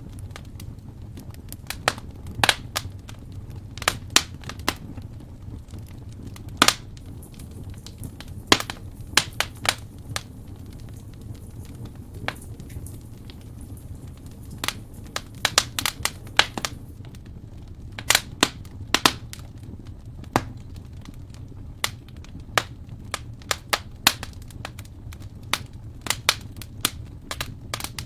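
Wood fire burning in a fireplace, crackling with many sharp, irregular pops and snaps over a steady low rumble.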